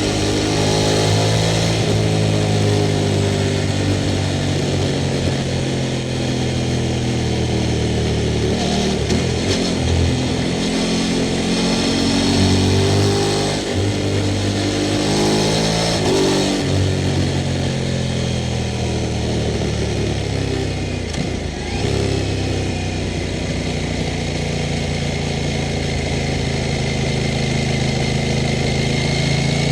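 Sport motorcycle engine running, its pitch rising and falling several times with the throttle, with brief drops in pitch and level about halfway through and again about two-thirds of the way in.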